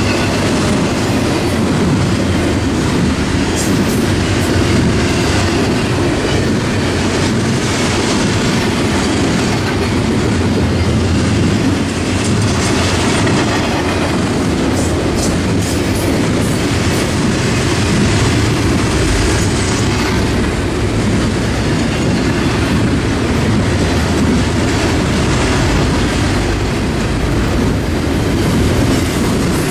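Double-stack intermodal freight train of container well cars rolling past at close range: a steady, loud rumble of steel wheels on rail with clickety-clack, and a few sharp high metallic clicks near the middle.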